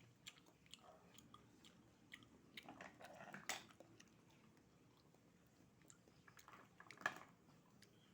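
Faint chewing and slurping of raw oyster, with soft wet clicks and a few louder smacks.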